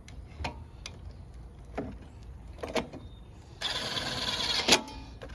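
A few light clicks of tools on metal, then about a second of steady buzzing as a bolt is driven in, ending in a sharp click.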